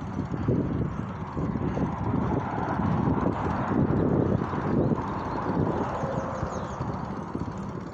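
Wind rushing and buffeting over a phone microphone carried on a moving bicycle, a steady noise that rises and falls with the gusts.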